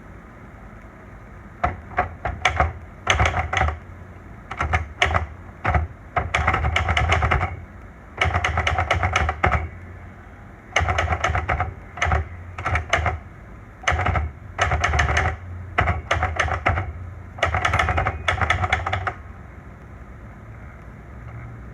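Olivetti Lettera 92 manual portable typewriter being typed on: fast bursts of key strikes in word-length groups with short pauses between them. The typing stops a few seconds before the end.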